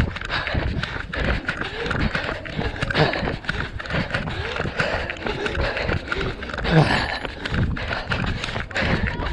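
A runner's footfalls in quick, steady succession, with voices in the background.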